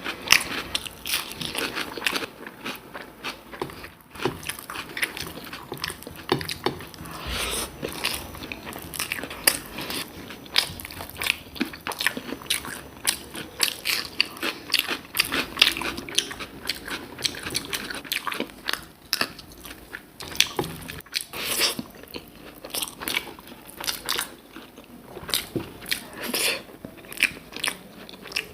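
A person biting and chewing food from a Bengali thali close to the microphone: a fast, uneven run of crunchy mouth clicks that keeps going throughout.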